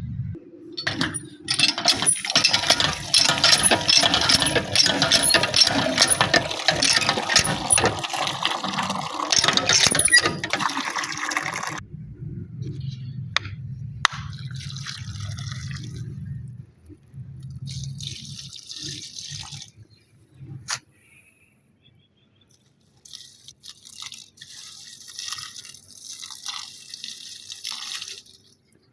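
Water running and splashing for about ten seconds, then stopping. A low hum and scattered small knocks follow, with fainter bursts of splashing near the end.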